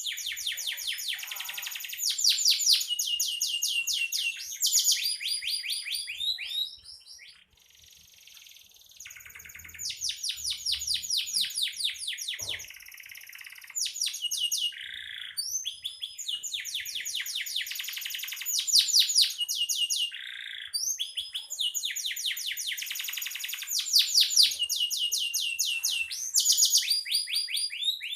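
Domestic canary singing a long song of rapid trills, each run a quick string of one repeated note before it switches to the next, with a brief pause about seven seconds in.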